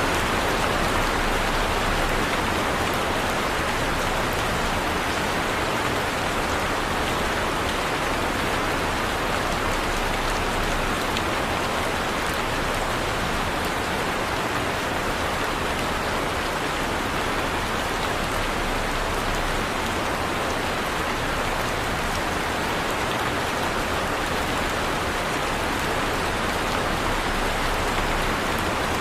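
Heavy rain falling steadily, a dense even hiss of rain on surfaces with scattered drop ticks.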